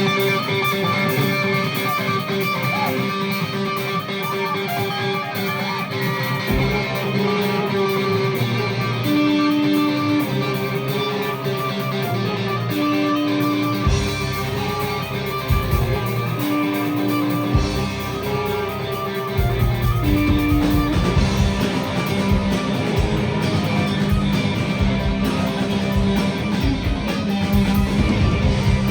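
Live rock band playing a guitar-led instrumental passage of electric guitars over steady chords, with a repeated held note; bass and drums fill in the low end strongly about two-thirds of the way through.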